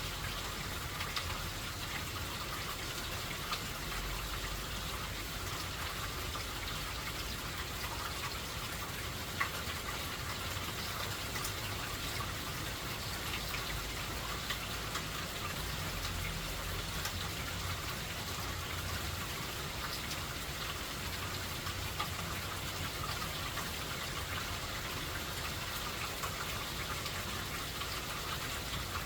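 Steady rain falling, with scattered single drops ticking sharply over the even hiss and a faint low rumble underneath.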